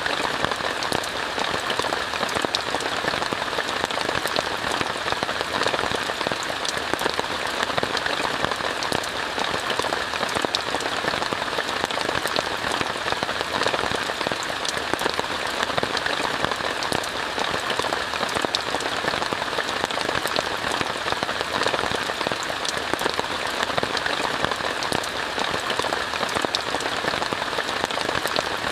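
Steady rain falling on a tent, heard from inside: a dense, even hiss of countless small drop hits that keeps on without let-up or change.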